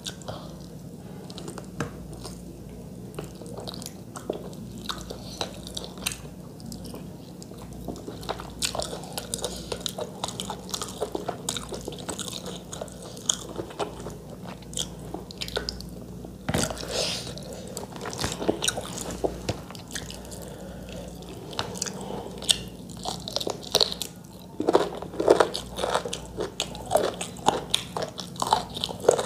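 Close-miked eating of chicken curry and rice by hand: chewing and biting, with many wet mouth clicks that grow denser and louder near the end, over a steady low hum.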